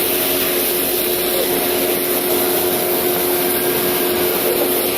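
Steady mechanical drone and hiss with a constant low hum, like a vehicle idling close by.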